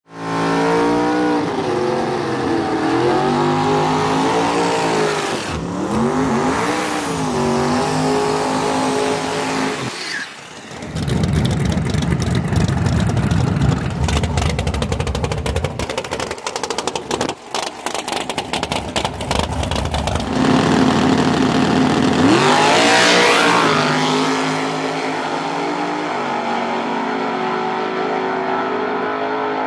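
Drag-race car engines revving up and down, then a very loud, rough full-throttle run of about ten seconds that cuts off suddenly. A high rev sweeps up and back down, and the engines settle into steady running near the end.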